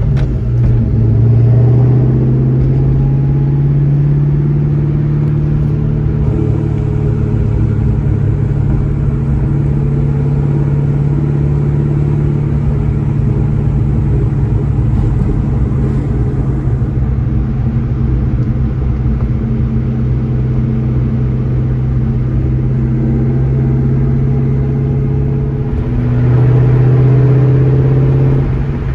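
2003 Mustang SVT Cobra's supercharged 4.6-litre V8 running through a Borla exhaust while the car cruises steadily, with a steady, even engine note. About 26 s in it swells louder for a couple of seconds before easing off.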